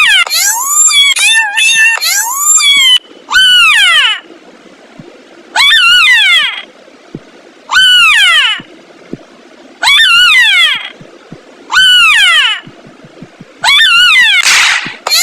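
A kitten meowing over and over in high, falling-pitched meows: several in quick succession, then one about every two seconds.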